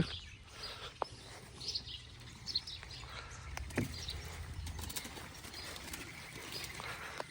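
Scattered faint bird chirps, with a couple of soft knocks.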